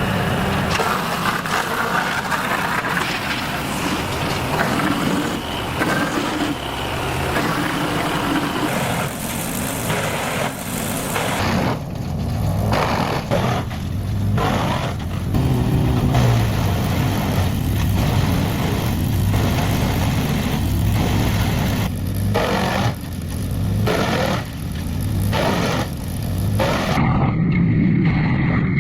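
Wood chipper running under load, its engine going steadily while it chews through wood, with a series of sharp crunches through the middle stretch.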